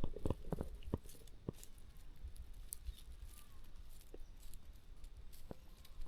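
Swamphen pecking and tearing at a dead carp: faint, scattered sharp pecks and clicks, several close together at first, then a few single ones.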